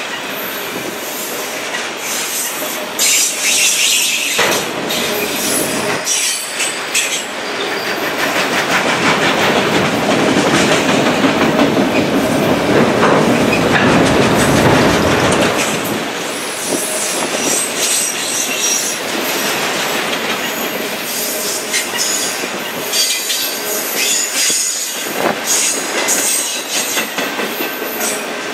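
Loaded autorack freight cars rolling past on steel rails, with wheel noise and clacking over rail joints. Wheel flanges squeal high at times, a few seconds in and again late on, and the rumble is loudest in the middle.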